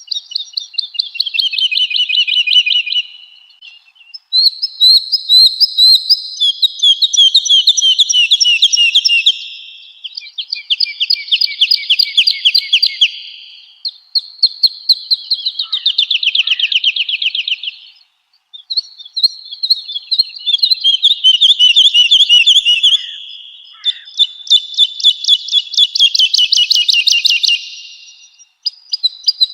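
Woodlark singing: phrase after phrase of fast trills of repeated liquid notes, each a few seconds long, with short pauses between, several fading away at the end.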